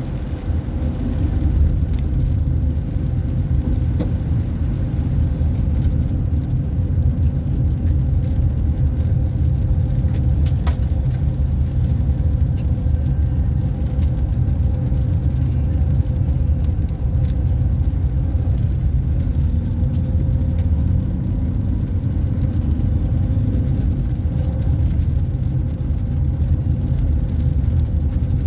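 Car driving along a road: a steady low rumble of engine and tyres, with a few faint ticks.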